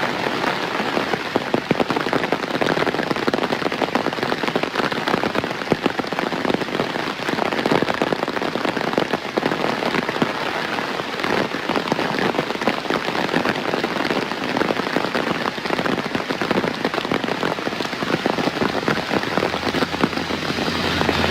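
Steady heavy rain, a dense patter of drops hitting surfaces. A low hum, like a distant engine, creeps in near the end.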